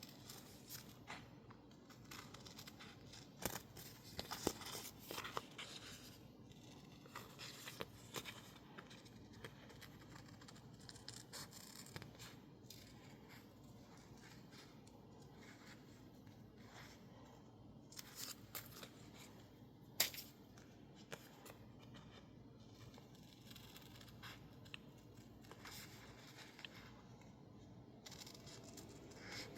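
Quiet snipping of scissors cutting label paper with masking tape stuck on it, with soft paper rustling. The snips come in scattered clusters, with a sharper snip about twenty seconds in.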